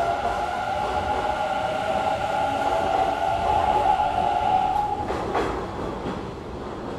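Hanshin Railway train moving along the platform: a steady high whine over a rumble that eases off about five seconds in, followed by a short clatter.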